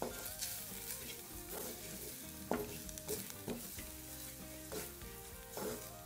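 Sliced onions with chili powder and curry powder sizzling in oil in a clay pot, stirred and scraped with a wooden spoon. The spoon knocks against the pot about once a second as the spices fry.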